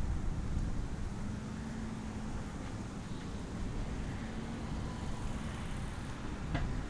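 Heavy diesel harvest machinery running steadily, with a faint steady hum over a low rumble and one short click near the end.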